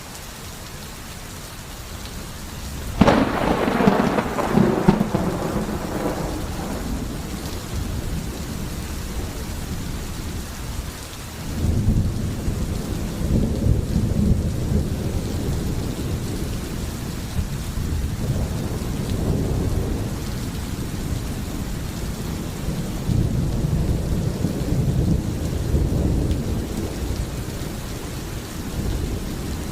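Steady heavy rain with a sudden, loud thunderclap about three seconds in that fades away over several seconds, followed later by long, low rolling rumbles of thunder.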